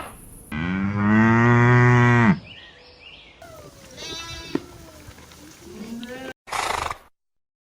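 A cow mooing once, a long low call of nearly two seconds. It is followed by a couple of shorter, higher animal calls and a brief burst of noise, then the sound cuts off abruptly.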